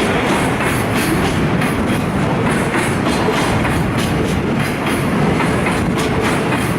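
Container flatcars of a departing freight train rolling past, with a steady rumble and the wheels clacking over the rail joints.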